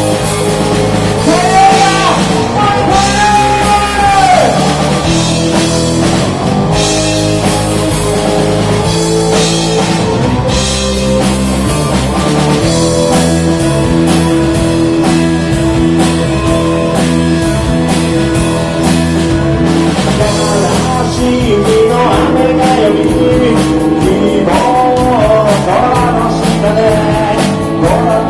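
Live rock band playing a song: electric guitar, bass and drum kit, with a male lead vocal singing a few seconds in and again from about two-thirds of the way through.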